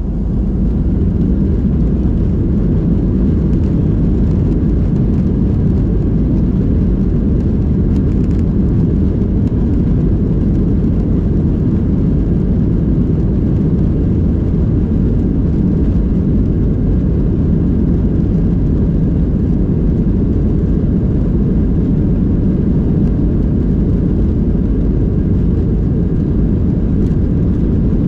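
Boeing 737 jet engines at takeoff thrust, heard from inside the passenger cabin: a loud, steady, deep rumble that swells up at the start and then holds.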